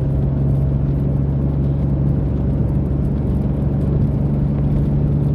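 Mitsubishi 3000GT SOHC V6 engine and exhaust droning steadily from inside the cabin while cruising at a constant speed, with no revving; the catalytic converters are gutted, which makes the exhaust louder.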